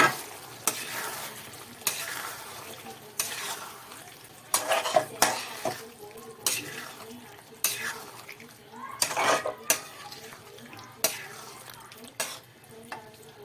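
A spoon stirring thick chicken gravy in a cooking pan, scraping and knocking against the pan at uneven intervals, with the pan sizzling on the heat underneath.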